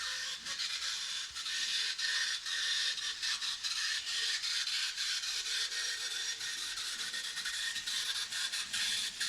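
Model train running on its layout track: a steady high whirr from the small electric motor and wheels, with frequent irregular clicks.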